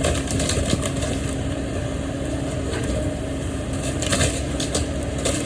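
Demolition machine's engine running steadily while a house wall is torn down, with scattered cracks and crunches of breaking timber.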